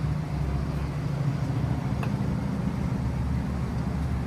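Steady low mechanical hum, like an engine or machinery running nearby, with one faint click about two seconds in.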